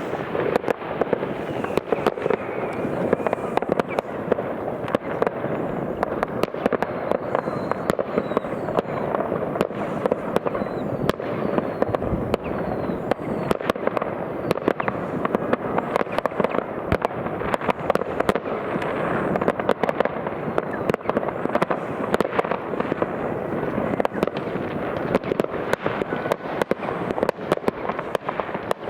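New Year's Eve fireworks: many rockets and firecrackers going off at once, a dense run of sharp bangs over a steady crackle that never lets up.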